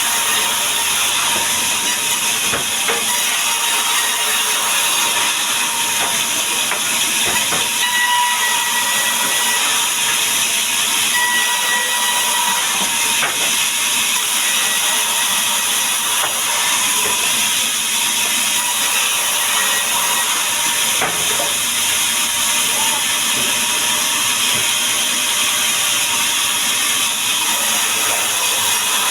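Power saw cutting through mahogany timber: a steady, loud hissing rasp with a faint high whine over it.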